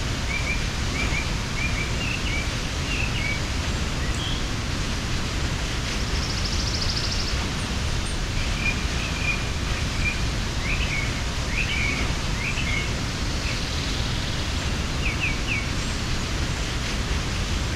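Steady rush of a mountain waterfall, with a small bird chirping in short runs of quick notes over it: in the opening seconds, again from about the middle, and once more near the end.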